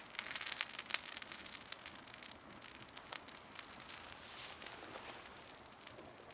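Wood campfire crackling, with scattered sharp pops and snaps that are thickest in the first second.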